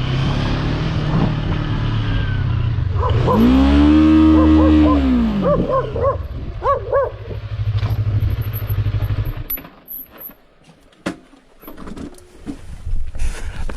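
A motor vehicle engine running, its pitch swelling up and falling back about three to five seconds in. The engine sound stops about nine and a half seconds in, leaving a few scattered knocks and clicks.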